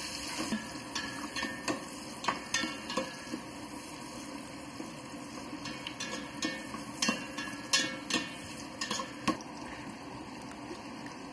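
Sliced onions and garlic frying in oil in a stainless steel pot, sizzling steadily, while a metal spoon stirs them and scrapes and clicks irregularly against the pot.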